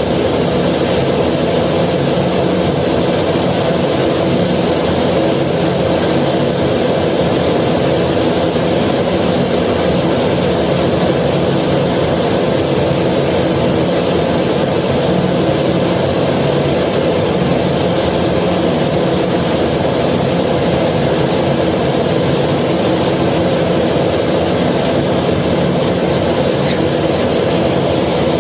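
Ferry's engines running with a loud, steady drone that holds unchanged throughout.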